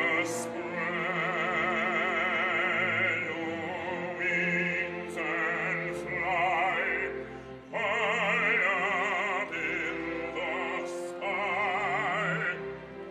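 Operatic singing: a voice with wide vibrato holding long notes over sustained accompaniment, in three phrases with short breaks between them.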